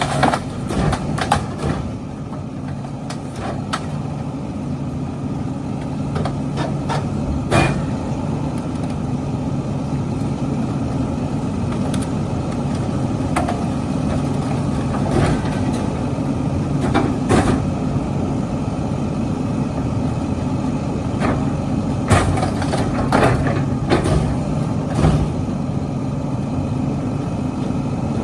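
Garbage truck's diesel engine idling steadily, with scattered sharp knocks and clanks every few seconds.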